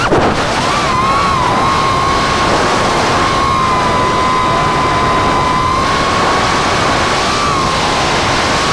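FPV freestyle quadcopter's brushless motors and propellers whining at a fairly steady throttle, the pitch wavering a little, over rushing air noise from the props and flight. A quick throttle dip comes right at the start.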